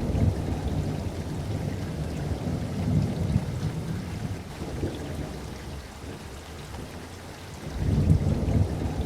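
Steady rain falling, with rumbles of thunder rolling in at the start, again about three seconds in, and a louder swell near the end.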